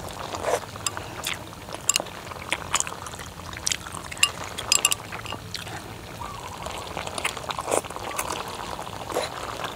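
Hotpot boiling on a portable gas stove, the liquid bubbling with many irregular sharp pops and clicks over a steady hiss.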